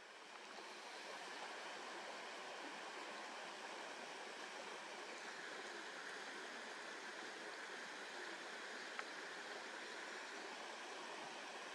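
Steady rushing outdoor noise like a flowing stream, fading in over the first second, with a single faint click about nine seconds in.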